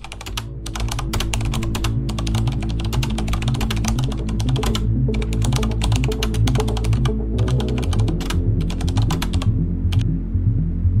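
Rapid keyboard typing clicks in irregular runs, a sound effect that stops about ten seconds in. Under them is background music of low sustained notes.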